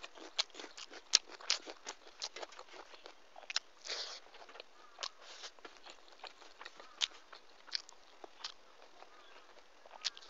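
Close-miked eating sounds: wet, irregular mouth clicks and smacks of chewing, with one louder click about a second in and a short rustling hiss about four seconds in.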